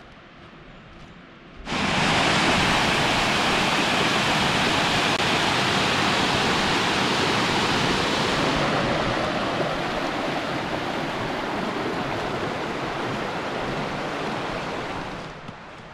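Rushing water: a steady, loud rush that cuts in suddenly about two seconds in, eases slightly partway through, and drops away near the end.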